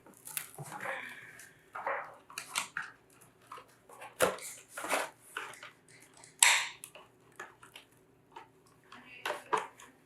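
Packaging being handled as the radio controller is worked out of its box: an irregular run of crinkles, rustles and clicks.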